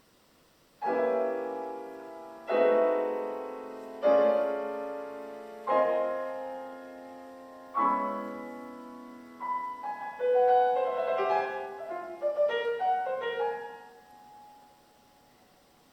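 Solo piano: five loud struck chords, each left ringing and dying away, followed by a quick flurry of higher, scattered notes that fades out into silence shortly before the end.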